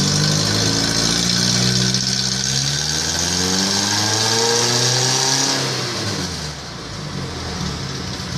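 Suzuki Carry engine and exhaust running, revved up smoothly over a couple of seconds and then let fall back to a lower, quieter idle. A hiss rides over the engine until the revs drop.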